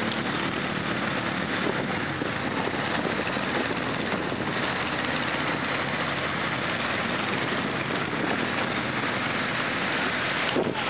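Engines of several off-road 4x4s running steadily as the vehicles wade slowly through a flooded ford, under a constant hiss.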